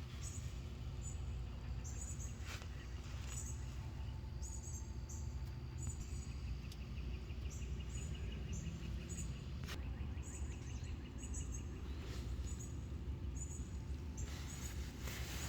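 Birds chirping in short, repeated high calls over a steady low rumble, with a stretch of fast, insect-like ticking in the middle.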